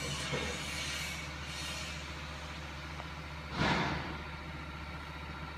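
Steady mechanical hum with a louder burst of noise about three and a half seconds in.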